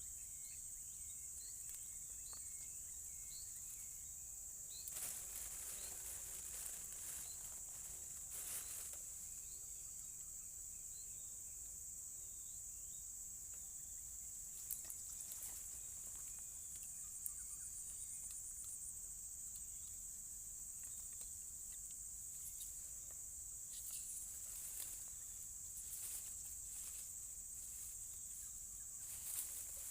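A chorus of insects droning steadily at one high pitch, with a few short chirps at the start and occasional brief rustles and clicks.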